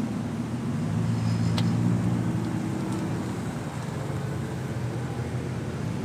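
Engines of lowered sedans running as the cars crawl past at low speed, a low exhaust hum that swells as the nearest car passes about a second or two in, then eases off.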